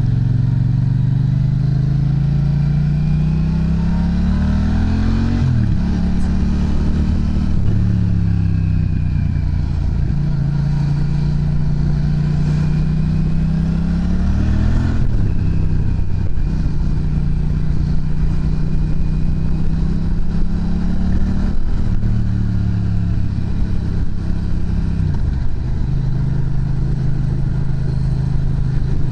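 Yamaha MT-07's parallel-twin engine through an aftermarket muffler, under way and riding through the gears. The pitch climbs, drops sharply at several gear changes and eases off between pulls.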